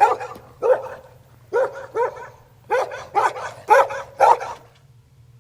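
Recorded dog barking from an animal-sounds game, about eight sharp barks in quick pairs, stopping a little before the end.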